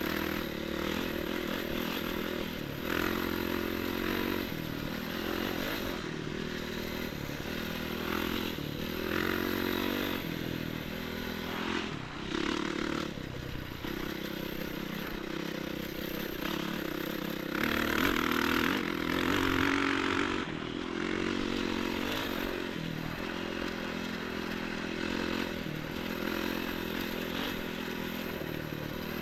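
Enduro motorcycle engine running while riding, its note rising and falling with the throttle, with a louder stretch about eighteen to twenty seconds in.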